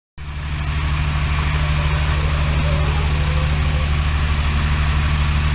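Heavy diesel engine of construction equipment idling steadily, with an even fast pulsing throb.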